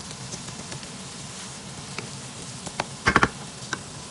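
Onion, tomato and spice curry base frying in a nonstick wok, a steady low sizzle with scattered small ticks as a wooden spatula stirs it. About three seconds in, a quick clatter of four or five loud knocks, the loudest sound.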